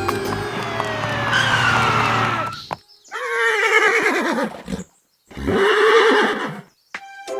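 Background music ending in a long falling glide, then a horse whinny sound effect twice, each call wavering and about a second and a half long.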